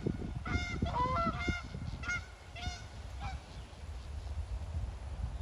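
Geese honking: a quick series of short honks over the first three seconds or so, then stopping, with a low rumble underneath.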